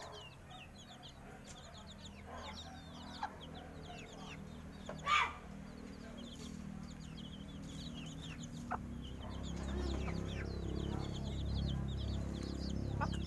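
Birds chirping: many short, high peeps keep on throughout, with one louder call about five seconds in. A low hum builds from about ten seconds on.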